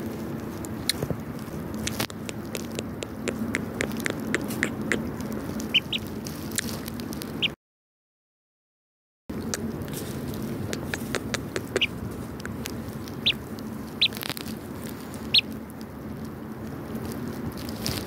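A young fowl held in a hand gives short, high peeps now and then, over handling rustle and small clicks close to the microphone. The sound cuts out completely for about two seconds midway.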